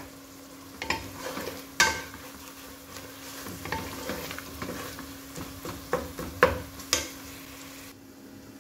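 Wooden spoon stirring an onion-tomato masala sizzling in oil in an aluminium pot, the masala being fried down until the oil separates, with several sharp knocks of the spoon against the pot. A steady low hum runs underneath.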